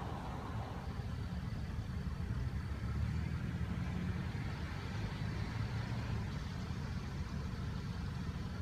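A car engine running steadily at idle, a low rumble with no rise or fall.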